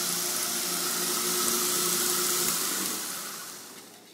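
Shop-built 2x72 belt grinder, driven by a 3/4 horsepower bench grinder motor, running with a steady hum and belt hiss, then switched off and winding down, fading out over the last second and a half.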